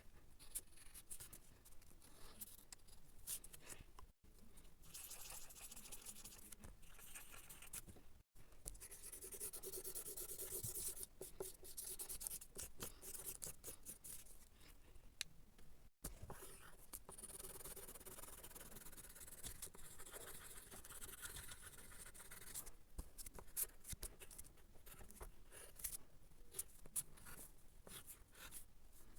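Faint scratching and rubbing of a drawing tool on paper, in uneven strokes, with brief dropouts about four, eight and sixteen seconds in.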